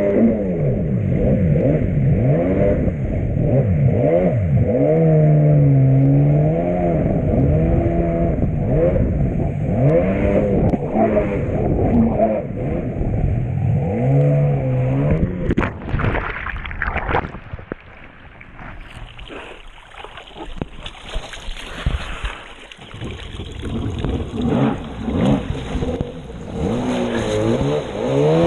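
Jet ski engine running and being revved, its pitch rising and falling with the throttle. About halfway through there are a couple of seconds of loud rushing noise and knocks. The engine then drops to a lower, quieter running for several seconds before revving up again near the end.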